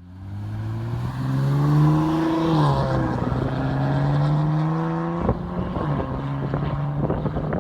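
Exhaust note of a 3.0-litre twin-turbo V6 in a 2017 Infiniti Q60 Red Sport 400, running through a NISMO sport exhaust with no mufflers. The engine pulls under load, rising in pitch, with two sudden drops in pitch about two and a half and five seconds in, as in upshifts.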